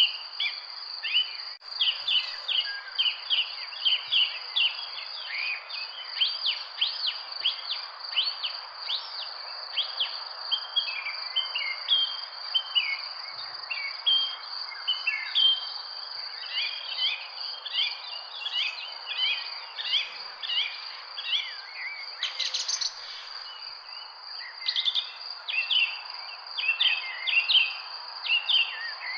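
Many songbirds chirping and twittering in quick, overlapping short notes, over a steady high-pitched insect drone and a soft even background hiss.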